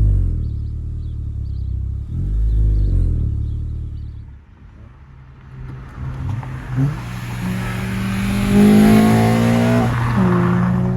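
2013 Honda Civic Si's 2.4-litre four-cylinder engine revved through its aftermarket exhaust. Revs fall off at the start, there is a short blip about two seconds in, then a longer rev climbs, peaks and drops back near the end.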